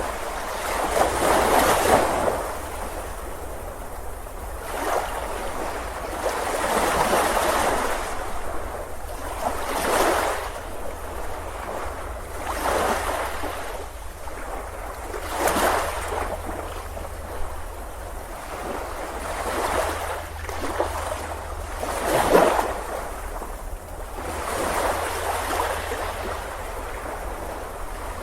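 Small waves breaking and washing up a beach, a surge of rushing water every two to three seconds over a steady low rumble.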